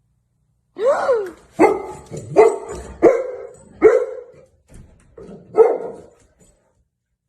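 A dog barking: about six loud barks, roughly one a second, starting about a second in, the first with a rising-then-falling pitch, and a weaker one near five seconds.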